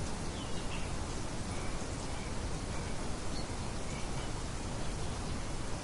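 Steady wind noise with faint, short bird chirps scattered through it.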